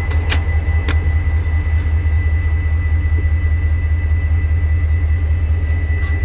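EMD 645E3C V16 turbocharged two-stroke diesel of a locomotive running steadily, a deep even rumble with a thin steady high tone over it. A couple of short clicks come in the first second.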